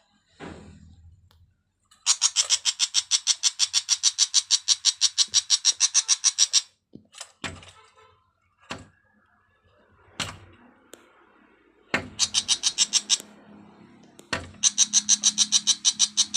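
A bird giving a harsh, rapid rattling call, about eight notes a second, in three long runs. A few separate knocks fall between the runs.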